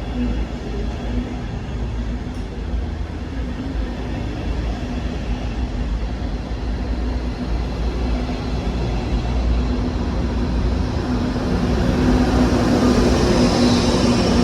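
Train running at a station platform: a steady low rumble with a hum, growing louder near the end.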